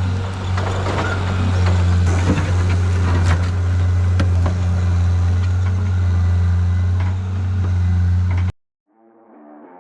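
John Deere skid steer's diesel engine running at a steady speed while working, with scattered knocks and clatter over the hum. The sound cuts off abruptly near the end, and guitar music fades in.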